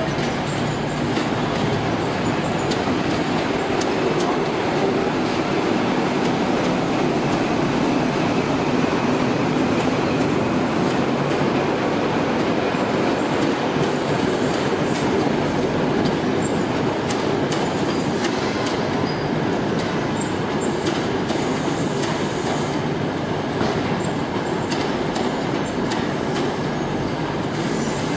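Class 43 HST diesel power car and its Mark 3 coaches running past along the station tracks: a steady heavy rumble with the wheels clicking over the rails and points, and occasional faint squeals.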